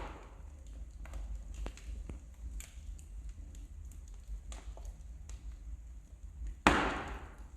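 Wood fire crackling in a fireplace: scattered small snaps and pops over a low steady rumble, with one louder pop near the end.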